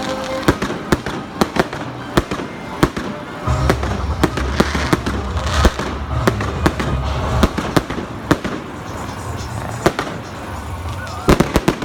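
Festive fireworks display: aerial shells bursting in quick, irregular sharp bangs and crackles, with a deep rumble of booms rolling through the middle.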